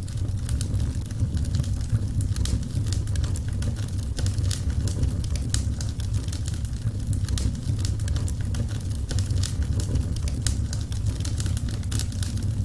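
Wood fire burning in a fireplace: a steady low roar of flame with many sharp crackles and pops, irregular and frequent.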